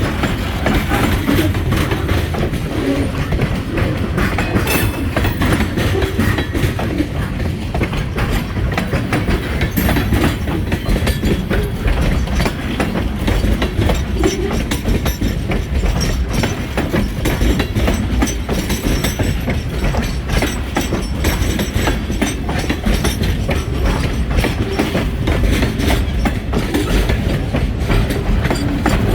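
Freight train rolling steadily past at close range, its car wheels clicking over the rail joints over a continuous low rumble.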